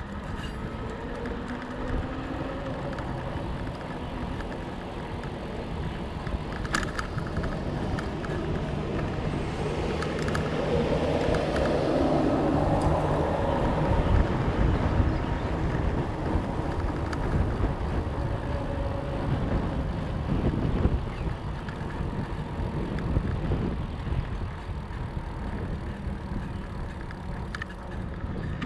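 A fat bike rolling along on 4.4-inch Schwalbe Jumbo Jim tyres, making a steady rushing rumble that swells louder through the middle.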